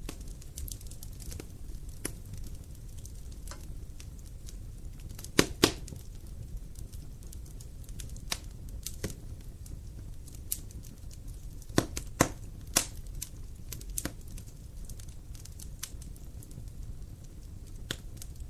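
Wood fire crackling: irregular sharp pops and snaps over a low steady rumble, with the loudest pops about five and a half seconds in and again around twelve seconds in.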